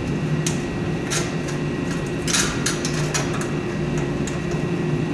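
A few short, light clicks and scrapes of metal parts being handled during a snowblower teardown, over a steady machine hum that runs throughout.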